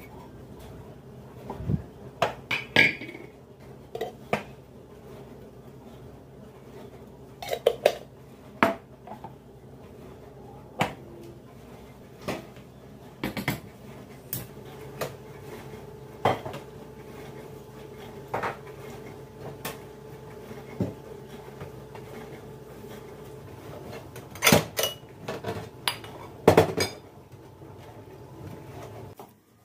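Dishes and cutlery clinking and knocking as they are handled and set down, in irregular single knocks and short clusters, over a steady low hum.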